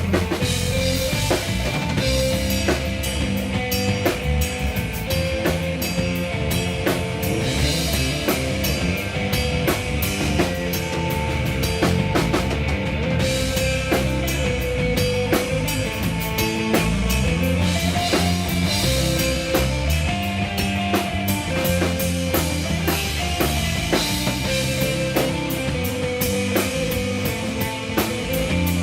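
Live rock band playing, with a busy drum kit and guitar over held melodic notes.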